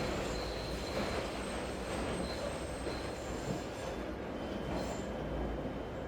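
A train running on rails with a high, thin wheel squeal over a steady hiss of rain and city noise; the squeal fades about four seconds in.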